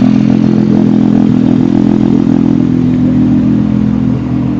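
Car engine idling steadily close by, a loud, even drone.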